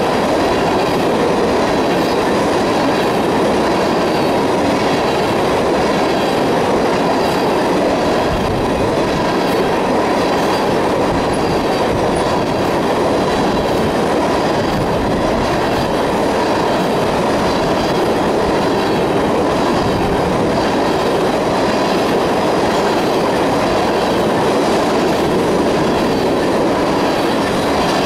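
Freight train of tank cars rolling past close by: a steady, loud rumble and rattle of steel wheels on the rails.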